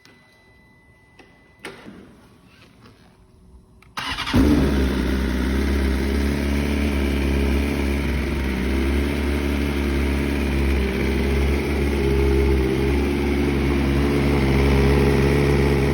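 A BMW S1000RR's inline-four motorcycle engine starts up about four seconds in, then idles steadily.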